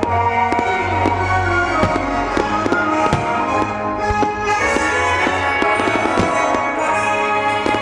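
Music with sustained tones, playing loudly while fireworks shells burst with many sharp bangs through it.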